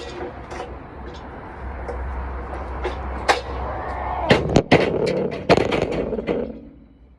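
A steel pallet jack clanking and knocking as it is heaved up and set onto a truck, with several loud metal bangs in quick succession past the middle. A man strains and grunts with the effort under the bangs.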